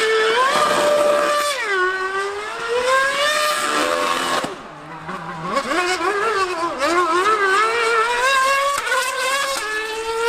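High-revving racing engine, its pitch climbing and falling again and again as it is revved, with a short drop in level about five seconds in.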